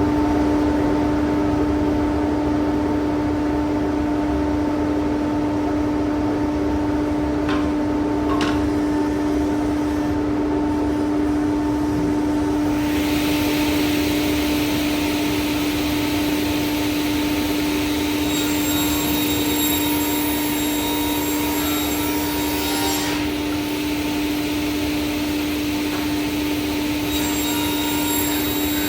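An electric motor, likely a power tool or vacuum, spins up with a rising whine and then runs at one steady pitch without a break. About 13 seconds in, a hiss joins it.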